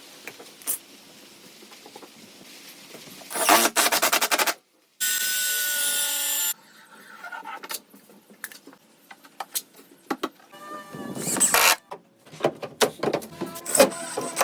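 A quick run of clipped door-fitting work sounds: dense sharp knocks and clatter, a steady pitched power-tool whine lasting about a second and a half, then more scattered clicks and knocks, each part starting and stopping abruptly.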